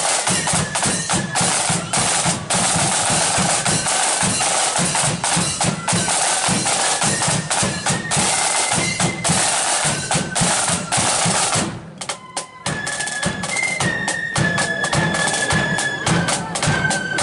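Marching flute band: snare and bass drums beat and roll, and after a short dip a little past the middle the flutes play a melody over the drums.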